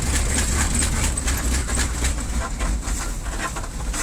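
1981 Chevy pickup truck driving through snow: a steady low rumble with a quick, irregular run of clicks and rattles over it.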